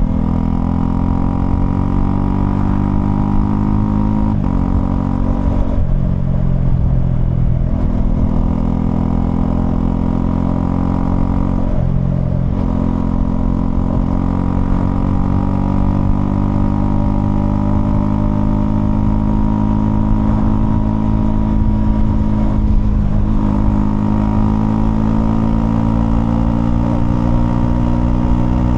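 Honda CL250's 249 cc single-cylinder engine running under way. Its note climbs slowly, broken by a few brief dips, with low rumble underneath.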